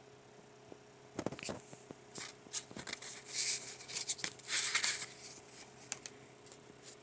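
Sketchbook pages being handled and turned: a run of paper rustles and small clicks lasting about five seconds, over a faint steady hum.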